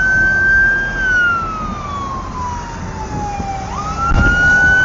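Emergency vehicle siren wailing: a slow rise-and-fall tone that sweeps down over a few seconds, then climbs sharply again near the end, over a low rumble of road noise.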